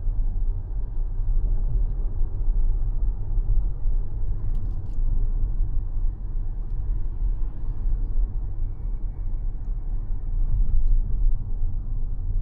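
Steady low road and tyre rumble of a Mazda 6e sedan being driven, with no engine note, and a few faint ticks about four to five seconds in.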